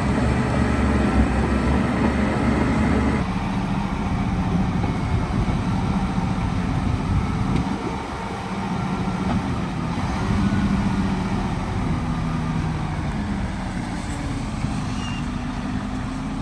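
Heavy construction machinery's diesel engine running steadily, the sound changing abruptly about three seconds in.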